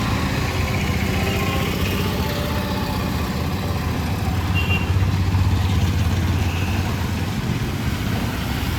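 Street traffic: a motor vehicle engine running steadily close by, with a low hum that grows a little louder about halfway through.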